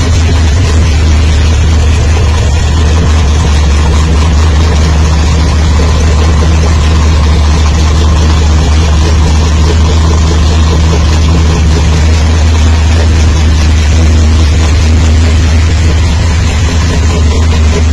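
A 383 stroker V8 engine idling steadily and loudly, holding the same pitch with no revving.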